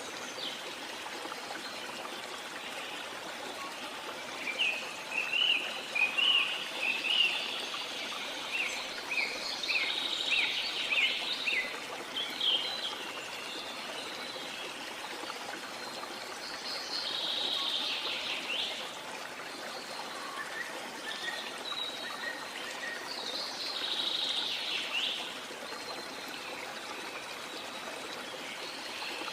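Rainforest ambience: steady rushing water as a constant hiss, with birds calling over it. A run of quick, rapid chirps comes in the first half, then two louder, longer calls that fall in pitch, several seconds apart.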